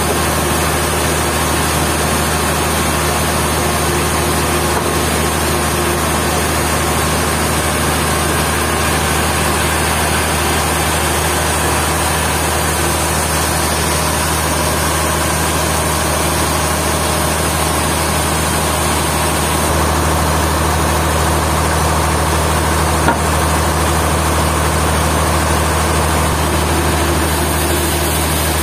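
Sawmill machinery running steadily with a loud, constant engine-like drone and low hum. The low hum grows slightly louder about two-thirds of the way through, and there is one faint click soon after.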